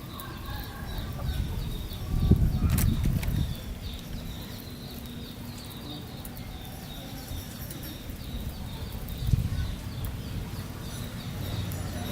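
Soft handling knocks and rustles as beef liver is threaded onto water-soaked bamboo skewers, loudest about two to three seconds in and again near nine seconds. Throughout, birds chirp in a quick, repeated high pattern in the background.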